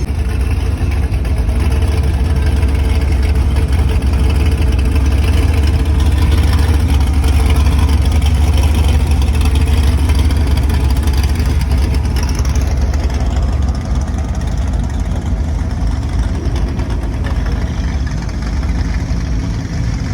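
Car engine running at idle close by: a loud, steady, deep rumble.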